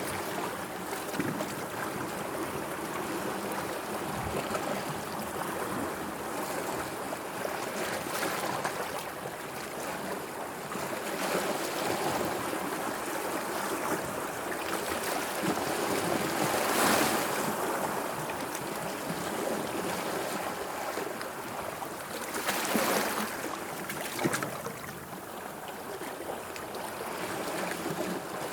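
Sea water washing and lapping in a continuous swell, with louder wave surges about halfway through and again a few seconds later.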